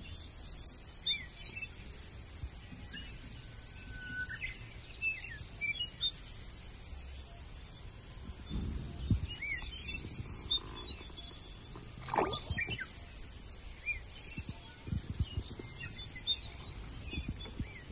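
Small birds chirping and calling in scattered short notes, with one louder call about twelve seconds in, over a low background rumble.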